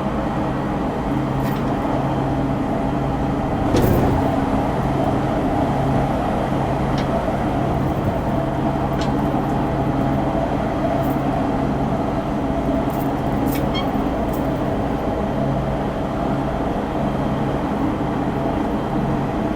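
209 series commuter electric train running at steady speed: wheels rumbling on the rails under a steady motor hum that holds its pitch. There is a louder knock about four seconds in, and a few light clicks.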